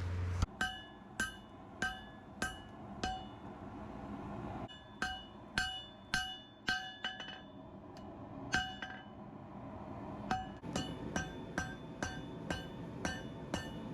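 Hand hammer striking layered Damascus steel on an anvil. Each blow rings out. The blows come in runs and quicken near the end.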